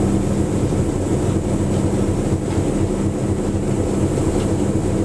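Steady drone and rumble of a moving train hauled by a diesel locomotive, with an even engine hum throughout.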